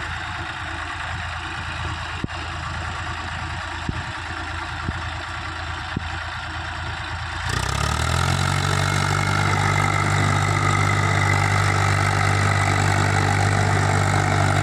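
Eicher 380 tractor's diesel engine idling steadily, with a few short clicks over it. About halfway through the engine speeds up within half a second, then holds a louder, higher steady run.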